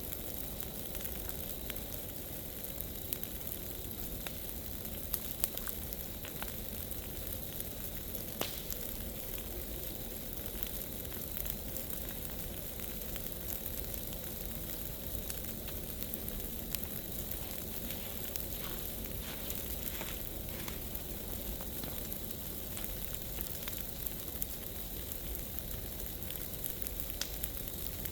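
Large bonfire of dry leaf piles burning, a steady rushing hiss of flames with scattered crackles and sharp pops, one stronger pop about eight seconds in.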